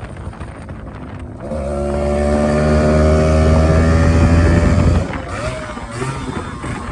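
Motorcycle engine accelerating hard: about a second and a half in the revs rise and the pitch climbs steadily for a few seconds, then the throttle snaps shut about five seconds in and the engine note drops away suddenly, as at a gear change.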